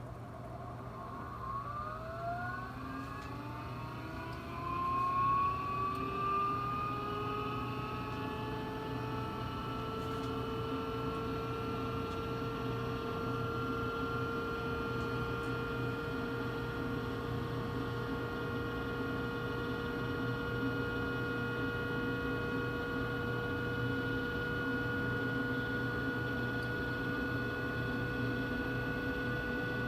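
Carrier Infinity 98 furnace's variable-speed blower ramping up during its startup airflow test. A whine rises in pitch over the first several seconds, then settles into a steady whir over a low hum.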